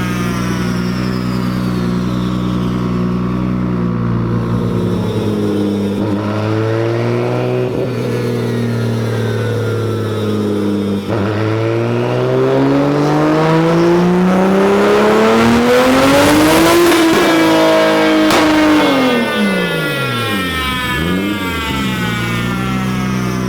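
Turbocharged Toyota Supra straight-six run through a full-throttle pull: it holds steady, revs up briefly and drops, then climbs smoothly for several seconds to its loudest point near the top, holds a moment, and falls back to steady running.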